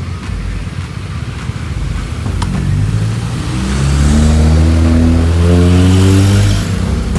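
Vehicle engine accelerating over road and wind noise. Its pitch climbs about two and a half seconds in, drops back at a gear change, then climbs again and gets louder.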